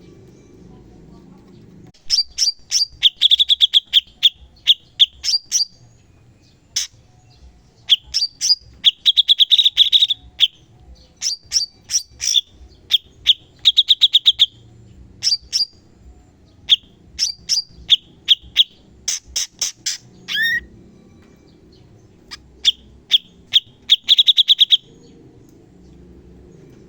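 Cucak cungkok song in fast, sharp bursts of rapid repeated high notes ('tembakan'), the bursts broken by short pauses. It starts about two seconds in and stops a couple of seconds before the end, with one quick downward-sliding whistle partway through.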